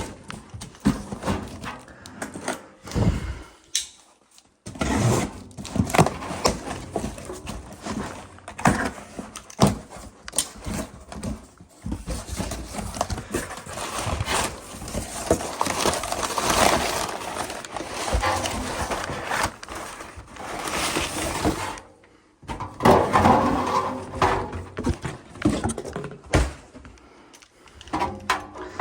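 Irregular knocks, clanks and scraping of hands-on repair work: tools and metal parts of an air handler's blower assembly being handled, with two short pauses.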